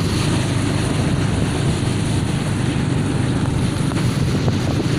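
Wind and road noise from a moving motorcycle: a steady, low rumbling rush on the microphone.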